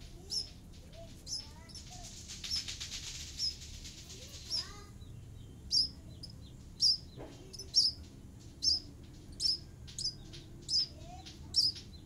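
Fledgling birds chirping: short, high chirps repeated about once a second, getting louder and more regular from about five seconds in. Around two to four seconds in there is a stretch of raspy buzzing.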